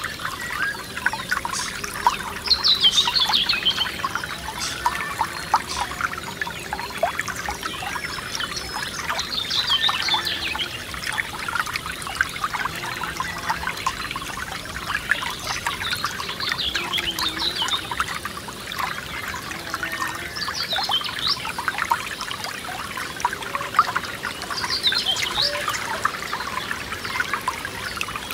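Forest stream trickling steadily, with a continuous patter of small splashes. A songbird sings a short phrase every few seconds over it.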